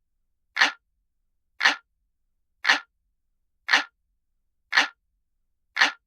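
Analog clock ticking sound effect: a sharp tick about once a second, each tick alike, with silence between the ticks.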